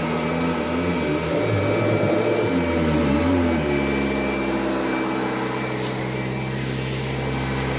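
1991 Kirby Generation 3 upright vacuum cleaner running on a hard floor. Its motor pitch wavers up and down for the first few seconds, then settles to a steady hum about halfway through.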